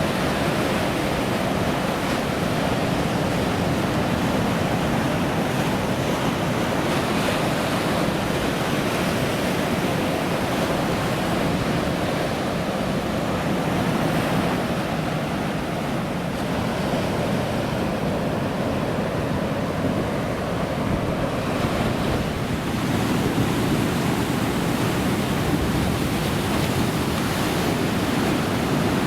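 Ocean surf: a steady, continuous wash of breaking waves, with wind buffeting the microphone.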